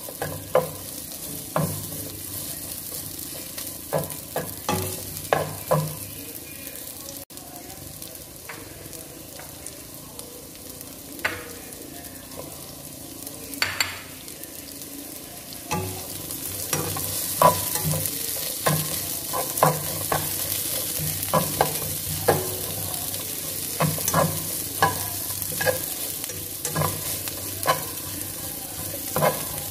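Sliced onions and chillies frying in a little oil in a nonstick wok, sizzling as they are stirred, with the black spatula repeatedly clicking and scraping against the pan. There is a quieter stretch in the middle, and the sizzle is louder in the second half.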